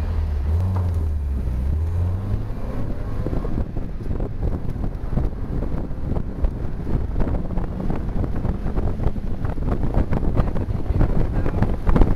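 Mazda Eunos Roadster's 1.8-litre four-cylinder engine, heard from inside the open-topped cockpit: a low steady engine note for the first two seconds or so, then wind buffeting the microphone takes over as the car gets under way.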